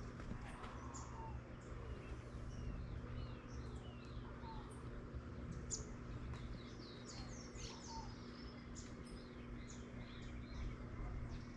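Several birds chirping and calling, short repeated notes overlapping one another, over a faint steady low hum.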